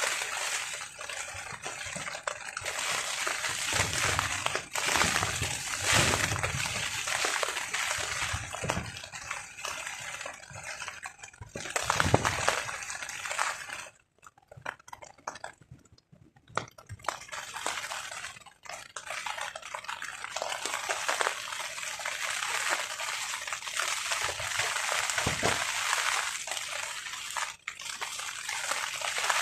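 Rain pattering on a tarp, with gusts of wind buffeting the microphone. About halfway through it briefly dies away almost to nothing.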